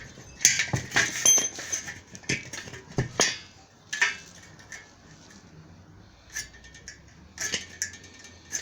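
Irregular light metal clinks and knocks, a dozen or so, of steel pieces and hand tools being handled and set down, some ringing briefly.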